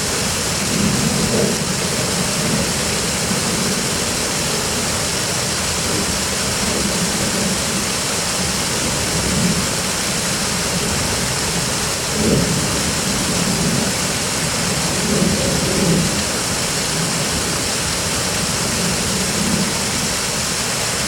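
Steady rushing of fast-flowing stream water, an even loud wash of noise without change.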